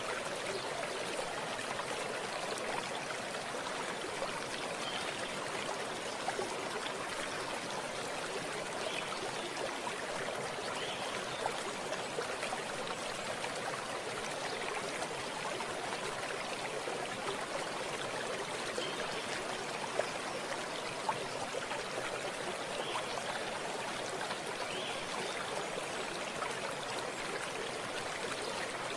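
Running water: a small stream or brook flowing and trickling steadily, with small splashes and drips scattered through it.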